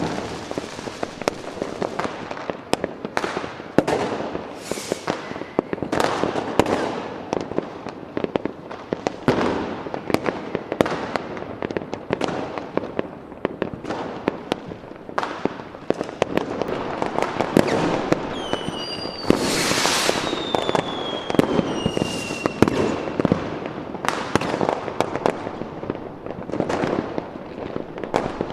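A fireworks display: a dense run of bangs and crackling bursts. About nineteen seconds in comes a louder hiss, and several whistling tones glide down in pitch over the next few seconds.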